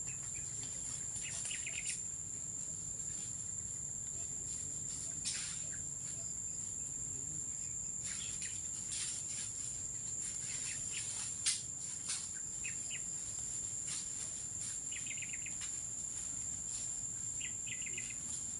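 Steady high-pitched drone of insects, with short bird trills now and then and a few sharp snaps or clicks, the loudest a little past the middle.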